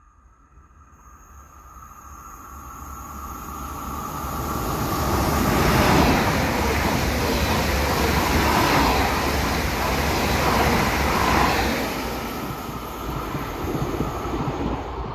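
A Bombardier Regio 2N double-deck electric regional train runs through the station without stopping. Its rush grows as it approaches, is loudest for about six seconds as the carriages go by, then eases off as it moves away.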